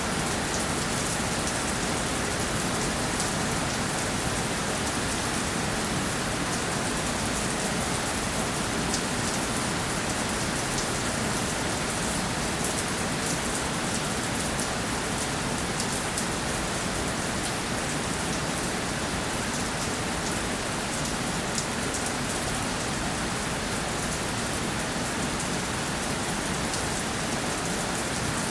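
Steady rainfall: an even hiss of rain with many small drop ticks pattering on a surface, unchanging throughout.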